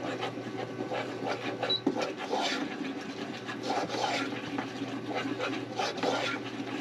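A utensil scraping and stirring around a pot as flour is worked into melted butter to make a roux, in quick irregular strokes.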